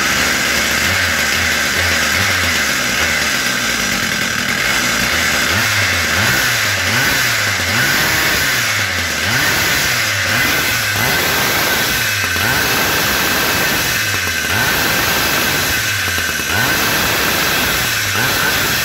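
Husqvarna K970 Chain concrete chain cutter's 94cc two-stroke engine running steadily on its quarter-throttle fast-idle setting to warm up, just after starting. Its pitch wavers up and down slightly.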